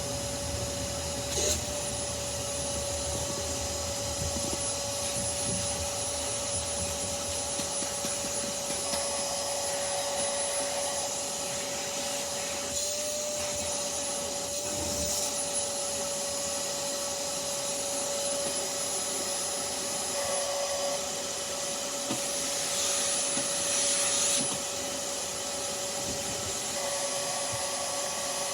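Vacuum cleaner running steadily, its motor giving a constant whine over the rush of air. There is a brief knock about a second and a half in, and the sound is a little louder for a couple of seconds late on.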